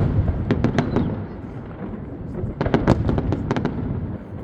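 Fireworks display: a rapid series of sharp bangs and crackles in two clusters, in the first second and again from about two and a half seconds in, over a continuous rumble of further explosions.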